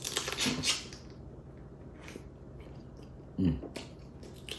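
Close-up mouth sounds of a person eating seasoned crab: wet crunching and chewing for about the first second, then a few faint clicks, and a brief low vocal sound about three and a half seconds in.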